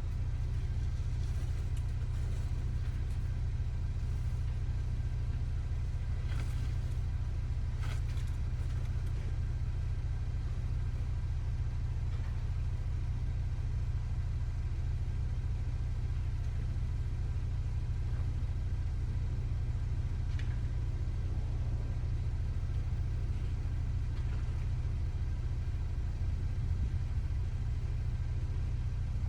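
Vehicle engine idling steadily, a low even rumble, with a few faint clicks about a quarter of the way in.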